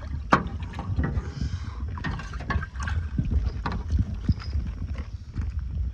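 Irregular knocks, taps and clatter of handling noise over a steady low wind rumble on the microphone.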